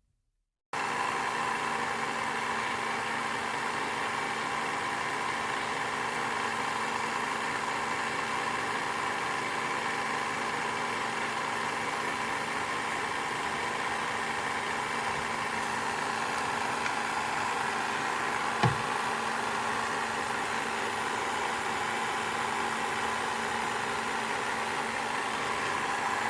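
Xiaomi Mi Robot Vacuum-Mop Essential running with a steady motor hum that starts about a second in, with one brief thump about two-thirds of the way through. This unit's main brush keeps spinning non-stop and won't shut off, a fault the owner reads about as a common problem.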